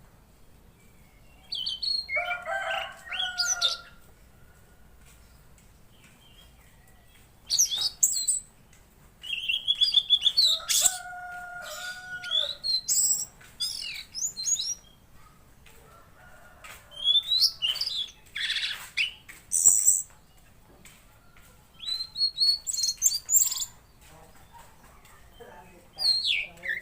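Tledekan laut songbird singing in repeated bursts of a few seconds each, with pauses between them. Each burst is a quick, varied run of chirps, trills and whistled notes that jump and glide in pitch.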